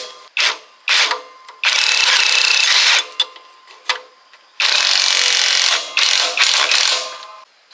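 Ratchet wrench clicking in a series of strokes: a few quick short strokes, then three longer runs of clicking, each a second or more, with short pauses between.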